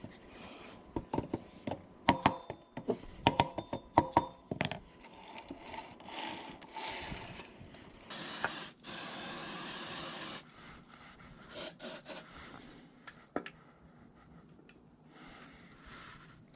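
Metal gear shafts and small drive parts clinking and tapping as they are handled, a cluster of sharp ringing clicks in the first few seconds. Then a steady hiss for about two seconds, followed by lighter scraping and occasional taps.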